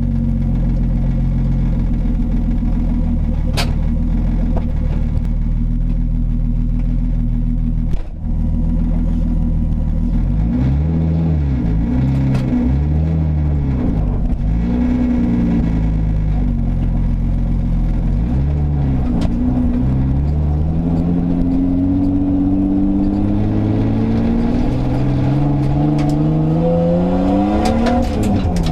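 Nissan Skyline R33 GTS-t's turbocharged RB25DET straight-six running loud, with only a downpipe fitted and no exhaust system. It runs steadily for about ten seconds, is revved up and down several times, then the revs climb steadily for several seconds before falling away near the end.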